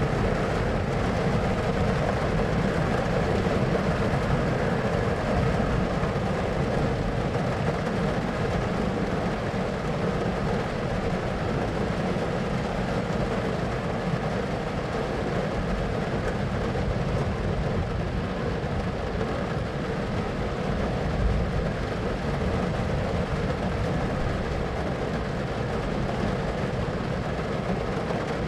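Steady, unbroken rumbling noise, heaviest in the low range, with no distinct events, as in a white-noise thunderstorm ambience.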